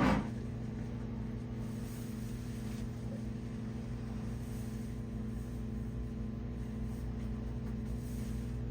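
Steady low machine hum made of several fixed tones, unchanging throughout.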